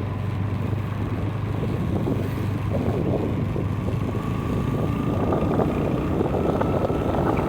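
Motorcycle engine running steadily while riding, with a low hum, road noise and wind buffeting the microphone.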